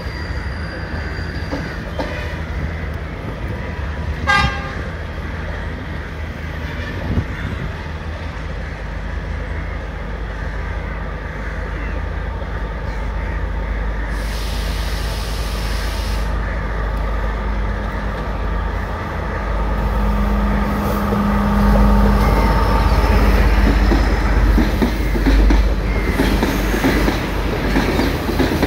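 Diesel trains running on the tracks: a steady rumble of wheels and coaches, with a brief high toot about four seconds in. From about seventeen seconds an engine drone and horn-like tones grow louder as a diesel train draws near, and its coaches pass close by with the loudest rumble near the end.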